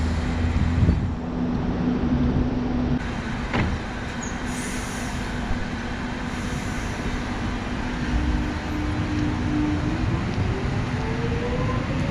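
Electric Metro suburban train running, with a motor whine climbing steadily in pitch over the last few seconds as it gathers speed. There is a single sharp knock about three and a half seconds in.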